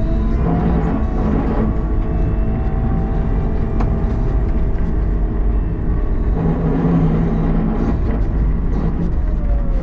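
CAT 906 compact wheel loader's diesel engine running steadily under work, with a fainter tone that slides up and down in pitch now and then.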